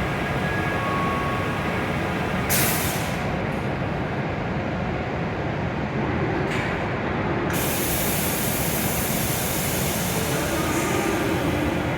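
W7 series Shinkansen train standing at the platform with a steady hum and rumble from its onboard equipment. Loud hisses of air are let out about two and a half seconds in and again about six and a half seconds in, and the second one carries on steadily.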